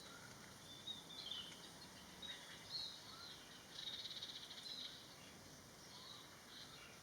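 Faint songbird calls: short high chirps and whistles, with a rapid pulsing trill about four seconds in, over a low background hiss.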